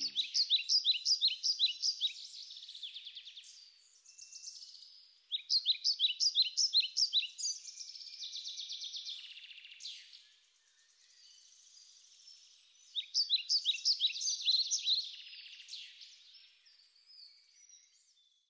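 Birdsong: a small bird sings quick series of high, sharp notes at about four or five a second, in three loud bouts separated by quieter chirping, fading out near the end.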